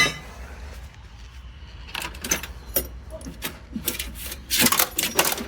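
Loose metal parts of a gas hot water heater clinking and rattling as it is pulled apart by hand. Scattered sharp clinks, with a louder flurry near the end.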